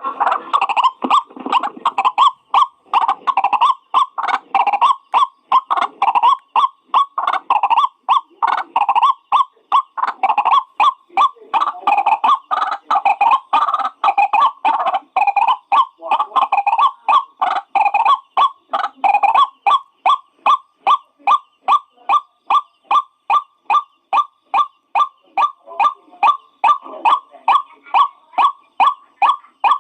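White-breasted waterhen calling: a long run of short, harsh repeated notes. For the first two-thirds the notes come densely and jumbled together, then they settle into an even series of about two or three a second.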